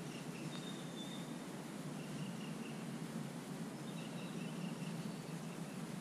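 Faint, thin bird calls several times, over a steady low background rumble.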